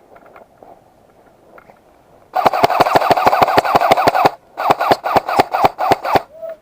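Airsoft rifle firing full-auto: two long bursts of rapid shots, about a dozen a second, starting a little over two seconds in, with a brief break between them.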